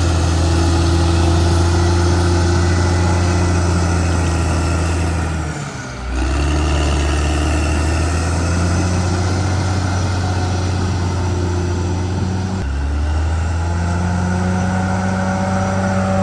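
CAT D6R XL bulldozer's diesel engine running steadily with a deep, even hum. It dips briefly about six seconds in and shifts abruptly in pitch a few seconds before the end.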